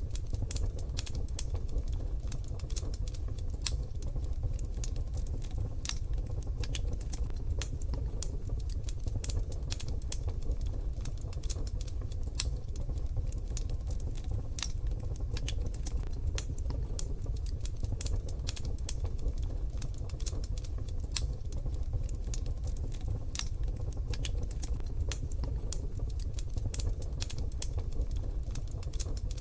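Wood fire crackling in a wood-burning stove: many small irregular pops and snaps over a steady low rumble of the burning fire.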